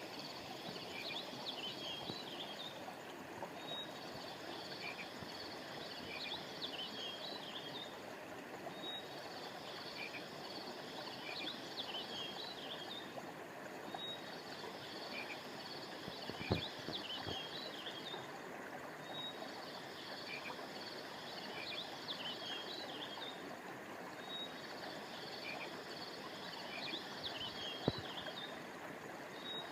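River water flowing steadily, with a bird's high chirping song repeating about every five seconds, each phrase a few seconds long. Two sharp clicks, one just past the middle and one near the end.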